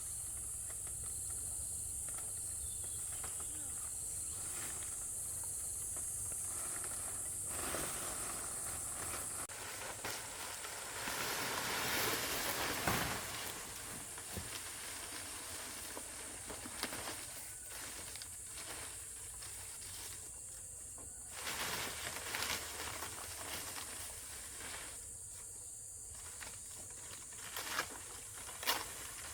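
Steady high-pitched insect buzzing, stronger for the first nine seconds or so, with intermittent rustling and knocks. The rustling is loudest about twelve seconds in, and there are a couple of sharp knocks near the end.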